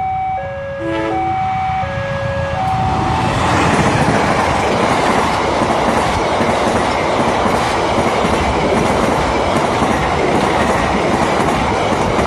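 Level-crossing warning alarm ringing in alternating two-tone chimes. About three seconds in, it is drowned out by the loud rush and rumble of a KAI passenger train passing close by.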